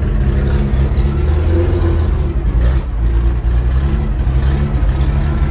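Porsche 911 race car's flat-six engine running steadily at low revs, heard from inside the stripped, roll-caged cabin as the car rolls slowly.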